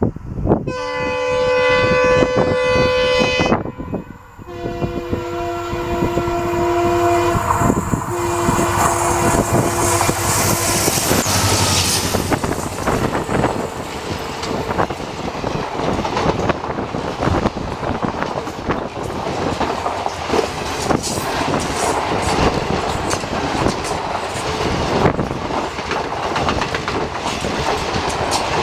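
EMD WDP4D diesel locomotive sounds its horn three times as it approaches at speed: two long blasts and a shorter third. Its train of coaches then runs past close by with a loud rumble and the clickety-clack of wheels over the rail joints.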